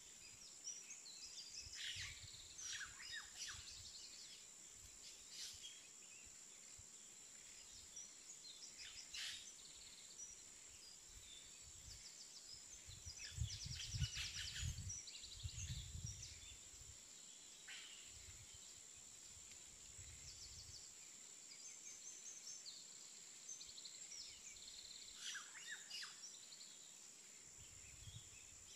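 Faint outdoor ambience: birds chirping on and off over a steady high-pitched insect drone, with a few soft low thuds, the loudest about halfway through.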